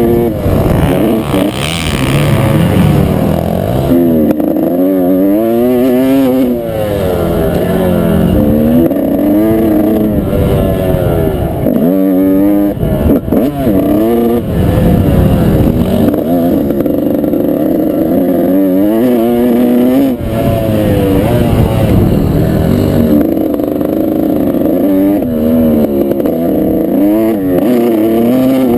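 Motocross dirt bike engine being ridden hard, revving up and dropping back again and again as the throttle is worked through the track's jumps and turns.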